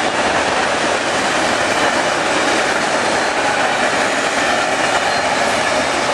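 Loaded double-stack container well cars passing at high speed, their steel wheels on the rails making a loud, steady rolling rush.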